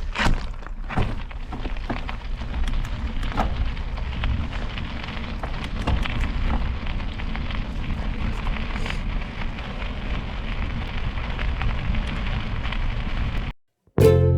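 A bicycle ride recorded on a camera microphone: wind rush over the mic with a low rumble and crackle, from tyres on a wet, snowy road, and a few sharp clicks and knocks in the first few seconds. The sound cuts off suddenly near the end.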